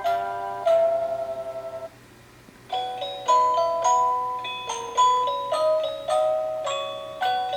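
Chime-like electronic melody of single bell-toned notes played through the animated Snow Blizzard Ride Christmas decoration's small speaker. The tune stops briefly about two seconds in, then starts again.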